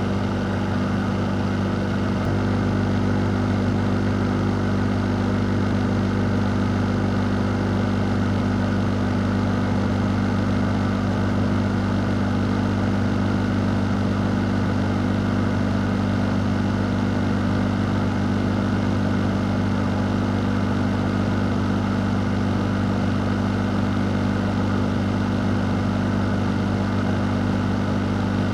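Fan running steadily: a low, even motor hum under a constant rush of air.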